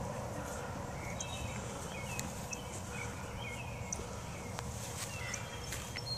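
Outdoor field ambience: birds chirping in short, quick calls over a low rumble of wind on the microphone, with a few faint clicks.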